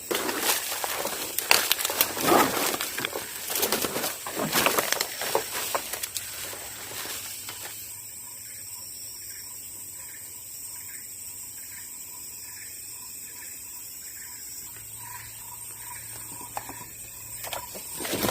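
Rustling and handling clicks for the first seven seconds or so, then quieter forest ambience. This holds a steady high insect drone and a soft note repeating about twice a second.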